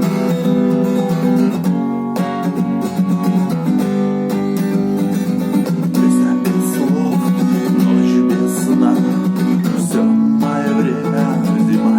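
Acoustic guitar strummed in a steady run of chords, playing a tune without words.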